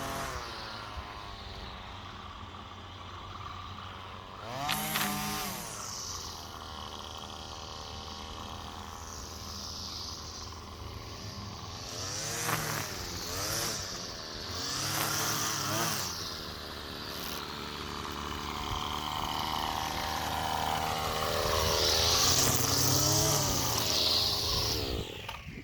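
String trimmer (weed whacker) engine running while cutting grass, revving up and down several times.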